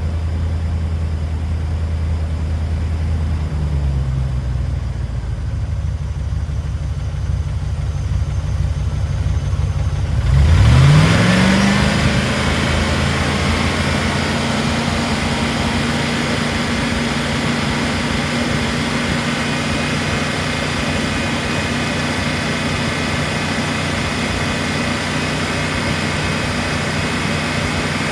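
Range Rover P38's V8 engine running at a steady idle, then about ten seconds in rising smoothly in speed and holding at a higher, steady pitch. Rislone has been added to the oil to free a sticking valve or lifter.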